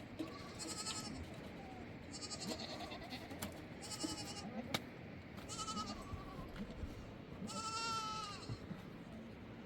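Sheep or goats bleating, about five separate quavering calls a second or so apart, the last one longer and louder than the rest, over a steady background rush.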